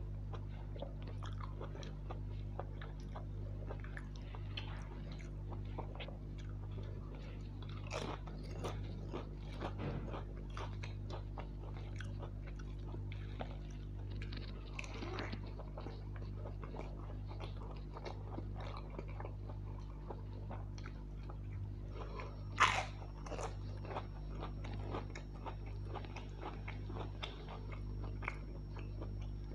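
Close-miked eating by hand: chewing mouthfuls of soya chunk pulao and curry, with wet mouth clicks and crunching, and one sharp crack about three quarters of the way through. A steady low hum sits underneath.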